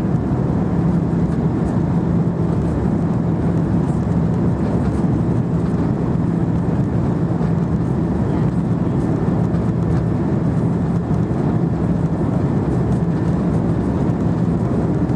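Jet airliner's engines running steadily during take-off: a loud, even rush of noise with a constant low hum and no change in pitch.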